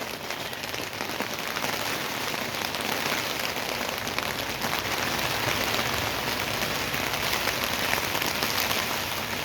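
Heavy rain lashing down in the wind: a dense, even hiss that swells a little over the first few seconds.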